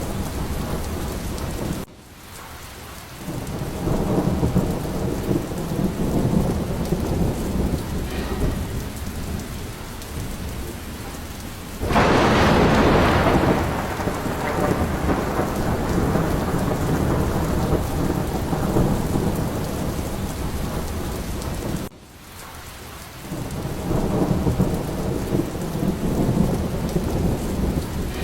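Steady heavy rain with rolling thunder rumbling low. About twelve seconds in, a loud, sharp thunderclap breaks out and fades over a couple of seconds. The sound drops away abruptly twice, about twenty seconds apart, before the rumbling builds again.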